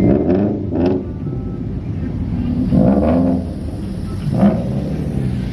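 Car engine revving in short blips, about three times, its pitch sweeping up and down over a steady low idle rumble.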